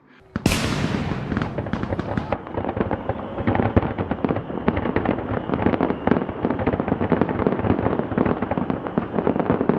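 Fireworks going off: a sudden bang about half a second in, then dense, rapid crackling that keeps on without a break.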